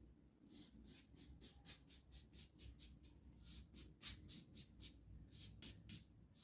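Faint, quick back-and-forth scratching strokes on a wooden workpiece, about four a second, with a short pause about five seconds in.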